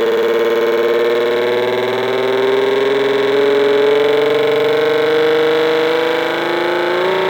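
Homemade electronic motorcycle sound generator playing through a small amplifier and speaker in a wooden box. It gives a steady, distorted engine-like buzz whose pitch rises slowly.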